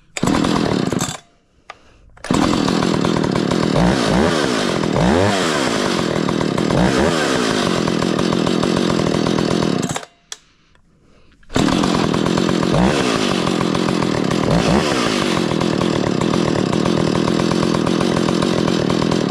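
Stihl 031 AV two-stroke chainsaw running and being revved up and down, in three stretches broken by two short, sudden silences. The owner says a failing ignition coil leaves it short of power.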